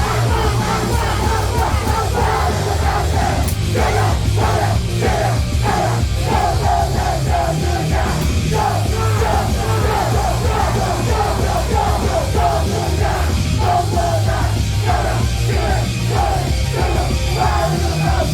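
Loud live rock music with yelled, shouted vocals over heavy, steady bass and drums.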